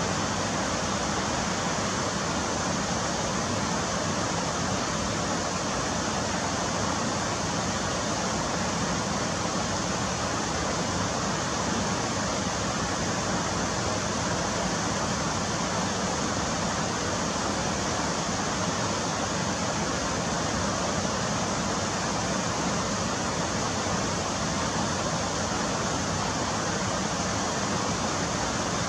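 Fast-flowing stream water rushing steadily, a constant even hiss with no bird calls standing out.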